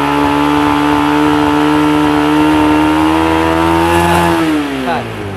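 Motorcycle engine revved up and held at raised revs, its pitch creeping slightly higher, then dropping back toward idle near the end. The throttle is held open to check the battery's charging voltage with the headlight on.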